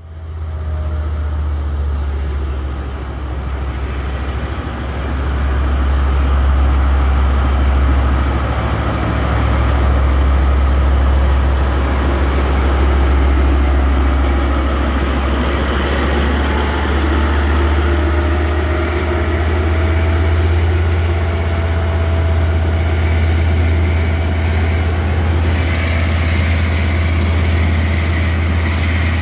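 Diesel freight train with a steady, loud low engine rumble that grows louder about five seconds in, as its container wagons roll past.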